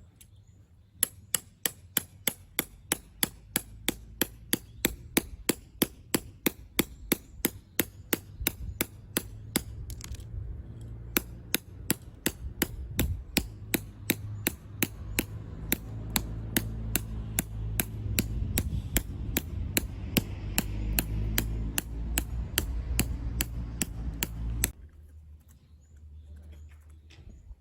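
Hammer driving a tent peg into the ground with rapid, steady blows, about two and a half a second, for over twenty seconds, over a low hum. The blows stop suddenly near the end.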